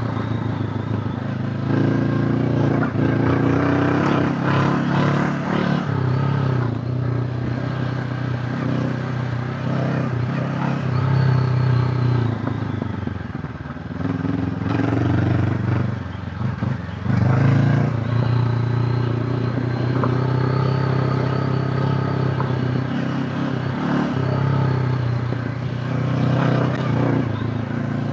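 Honda CB500X parallel-twin engine under way on a climbing track, its note rising and falling with the throttle, easing off briefly twice near the middle. Clatter from the bike running over rough ground.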